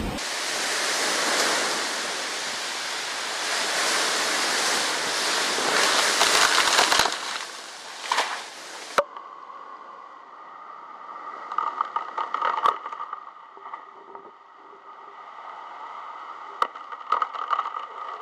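Storm wind and heavy rain as a loud, steady rushing noise for about seven seconds. It then drops to quieter gusting with scattered sharp clicks and rattles.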